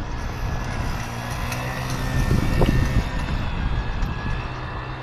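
Pit bike engine running, its pitch fairly steady.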